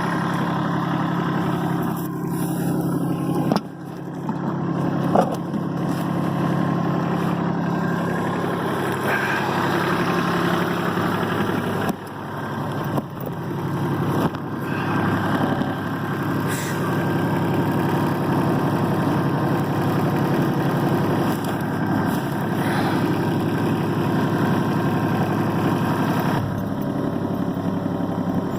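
Kubota diesel tractor engine running steadily, with a few short knocks in the first half.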